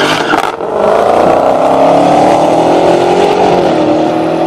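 Supercharged V8 of a Dodge Challenger Demon or Hellcat under hard acceleration down the road, a loud, steady engine note with a brief hiss at the start. The pitch dips about three and a half seconds in, and the sound fades near the end.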